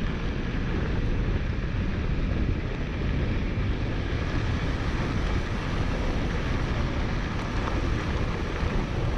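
Steady wind buffeting the microphone of a camera riding on a moving mountain bike, a heavy low rushing with no pauses.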